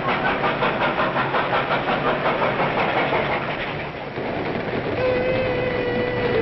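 A moving train's wheels clattering over the rail joints in a fast, even rhythm. About five seconds in, a steady train whistle starts sounding and holds.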